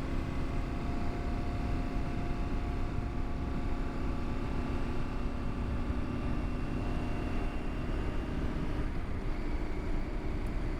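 2022 KTM 890 Adventure R's parallel-twin engine running at a steady cruise, its pitch dipping slightly about eight seconds in, with wind rumbling on the microphone.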